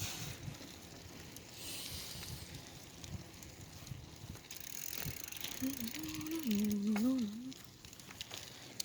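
Bicycle riding noise, a steady hiss with scattered clicks and rattles from the bike. About halfway through, a rider starts humming a tune.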